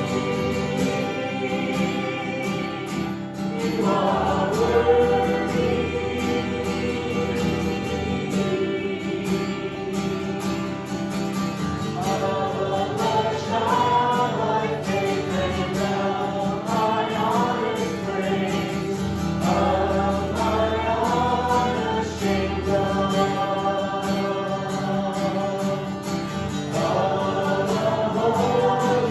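Christian worship song: voices singing phrases over sustained instrumental chords.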